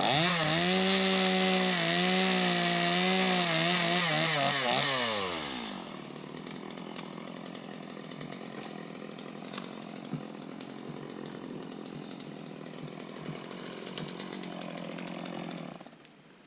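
Two-stroke chainsaw running at full throttle for about five seconds, its pitch wavering under load as it cuts wood, then the revs fall away. A quieter steady sound with scattered light clicks and snaps follows.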